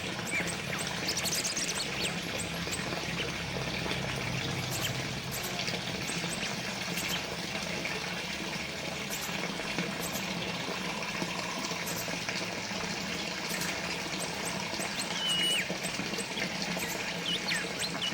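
Water from a small fountain trickling and splashing steadily. A few short bird chirps come through near the start and near the end.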